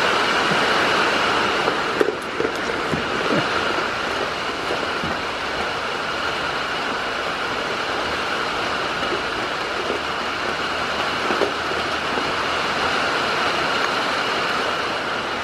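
Steady rain falling, a continuous even hiss, with a few faint light taps.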